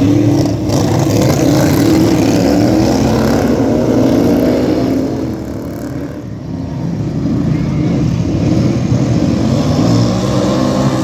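Several racing lawn tractor engines running hard together, their pitches rising and falling as they rev. The sound fades somewhat about halfway through, then swells again.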